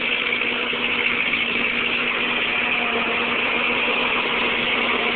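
1949 Ford 8N tractor's four-cylinder flathead engine idling steadily as it warms up.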